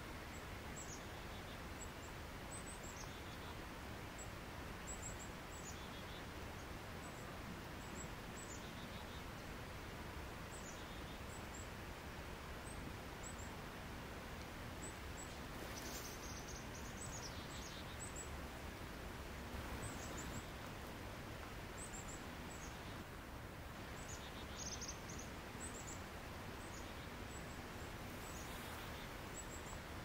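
Steady faint hiss with a small bird's high, short chirps repeating every second or two.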